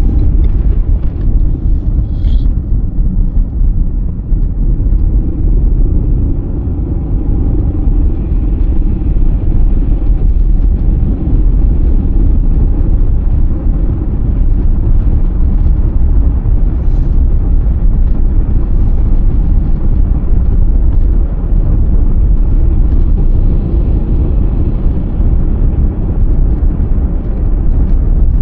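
A car driving steadily on a snowy road: a loud, unbroken low rumble of tyres, road and engine, with a few faint ticks.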